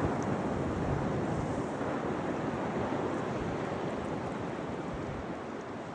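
Atlantic surf washing steadily onto the beach, with wind rumbling on the microphone.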